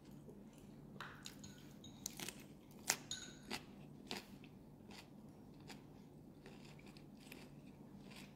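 Close-up chewing of a bite of grilled pork belly wrapped in a raw cabbage leaf, with a few sharp crunches in the first half that grow softer later, over a faint low hum.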